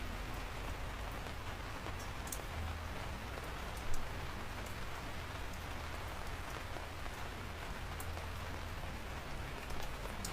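Steady rain falling, an even hiss with scattered sharp drop ticks and a low rumble underneath, and one louder drop hit about four seconds in.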